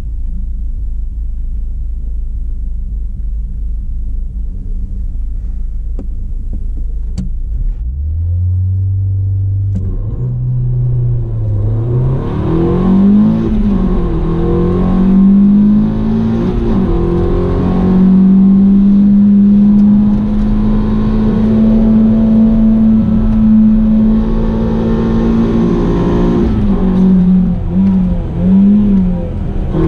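Renault Clio 200 Cup's 2.0-litre four-cylinder engine heard from inside the cabin. It idles at first; about eight seconds in it launches and accelerates hard, its pitch climbing and dropping back at each gear change. It then holds steady at high revs for several seconds before more shifts near the end.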